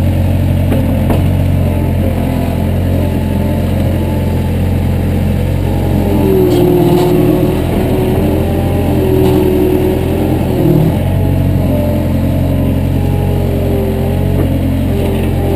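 A vehicle engine running steadily, just after being started, with a higher whine above it that wavers in pitch.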